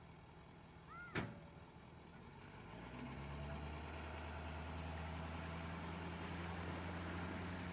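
A sharp click about a second in, then a steady low motor hum that builds up and holds, like an engine running.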